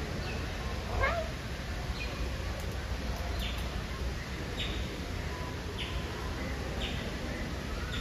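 Aviary birds calling: a short high call repeated about once a second, with one louder call rising in pitch about a second in, over a steady low rumble.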